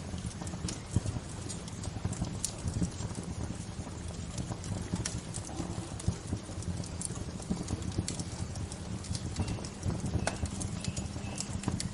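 Campfire crackling, with irregular sharp pops and snaps over a steady low rush. A few faint bird chirps come in near the end.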